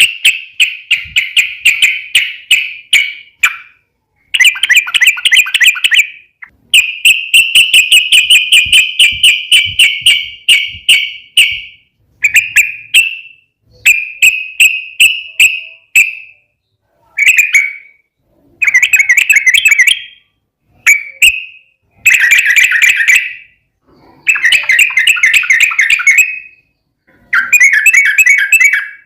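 Yellow-vented bulbul (trucukan) song: loud, fast, rapidly repeated notes delivered in a run of bursts of one to four seconds, with short pauses between them. It is a long rapid-trill ('ropel panjang') recording used as a lure to make other bulbuls sing back.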